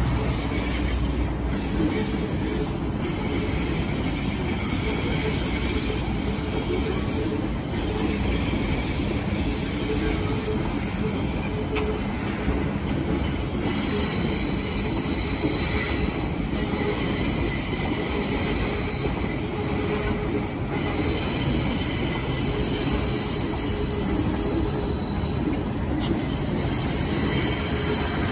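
MTR electric multiple-unit train pulling out of the depot on curved track. Its wheels squeal continuously, several high steady tones over a steady rumble.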